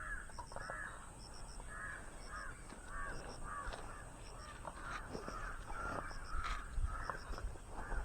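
Birds calling over and over, a short call about twice a second, with faint high chirps in threes repeating behind them.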